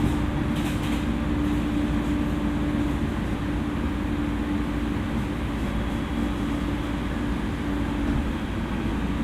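E231 series electric commuter train running on the line, heard from inside the passenger car: steady rolling noise with a low, steady hum that fades away near the end, and a few faint clicks about a second in.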